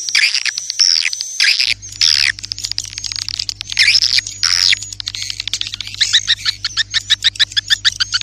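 Swiftlet (walet) calls: high twittering chirps and sweeping squeaks in quick succession, then a fast run of short clicking notes near the end. A faint low hum comes in about two seconds in.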